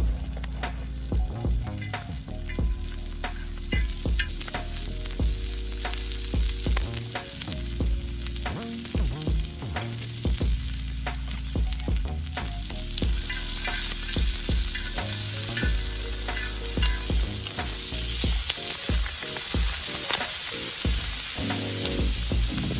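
Steady sizzling hiss with frequent sharp crackles, growing brighter about halfway through, over background music.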